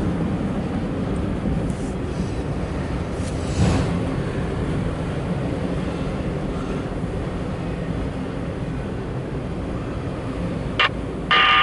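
Steady rumble of a long freight train rolling past, with wind on the microphone. A short, loud pitched sound comes just before the end.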